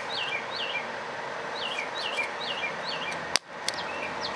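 A bird calling, runs of quick falling two-part notes, over a steady hiss; a single sharp click about three and a half seconds in, then a few lighter clicks near the end.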